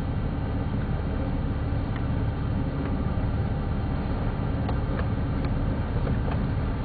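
A four-wheel-drive's engine running steadily, heard from inside the cabin as an even low rumble, with a few faint clicks.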